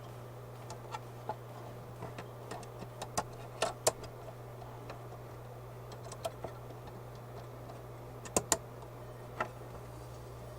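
Irregular small clicks and knocks of wiring connectors being plugged in and plastic parts handled, the loudest a sharp double click about eight and a half seconds in, over a steady low hum.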